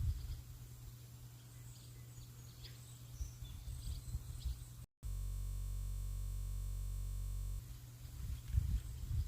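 Birds chirping faintly over an uneven low rumble. Just before halfway the sound cuts out for an instant, and a steady synthesizer-like drone plays for about two and a half seconds before the birds and rumble return.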